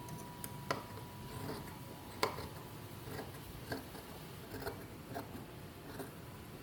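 Sparse small clicks and taps of sewing tools and fabric being handled on a work table, the sharpest a little over two seconds in, with a faint steady tone that stops about two seconds in.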